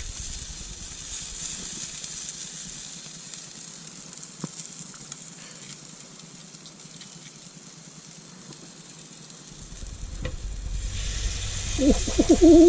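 An omelette of vegetables and egg sizzling in a Ridgemonkey pan over low heat. The hiss fades down in the middle and swells again near the end, with a few small ticks.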